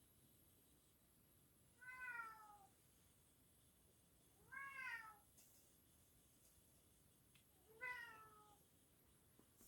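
A cat meowing three times, each meow short and falling in pitch, about three seconds apart.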